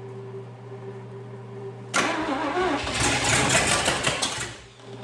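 Starter cranking a 1956 Chevy 265 small-block V8 that has just been primed with fuel. It kicks in suddenly about two seconds in, cranks in an even pulsing rhythm for just under three seconds, and stops without the engine catching.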